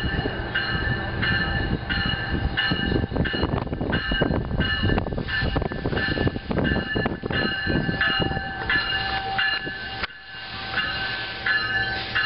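NJ Transit multilevel commuter train passing close by, its cars rumbling and clattering. A high-pitched tone pulses on and off about three times every two seconds. The rumble drops away about ten seconds in.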